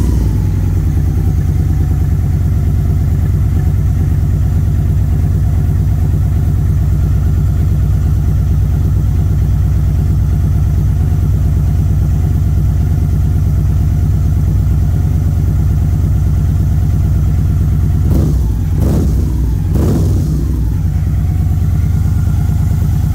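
Victory Magnum's V-twin with a custom exhaust, idling steadily just after starting, with two short throttle blips near the end.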